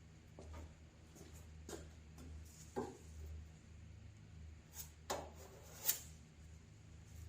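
Faint handwork noises: a few light knocks and scrapes spaced a second or so apart, over a steady low hum.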